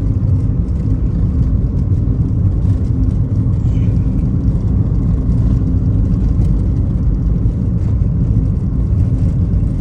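Car interior road and engine noise while driving: a steady low rumble.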